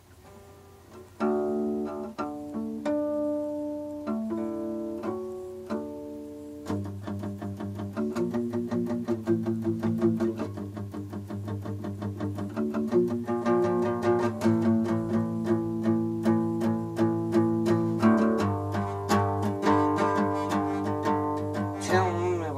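Guitar intro played live: picked chords begin about a second in, then a quicker, fuller picking pattern over bass notes takes over from about seven seconds on.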